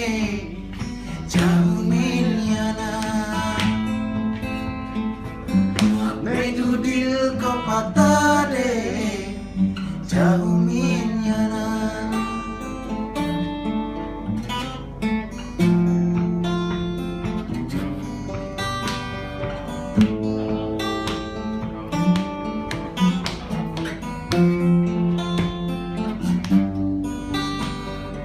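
Acoustic guitar strummed under male singing, with gliding vocal runs in the first ten seconds or so, then steadier held notes.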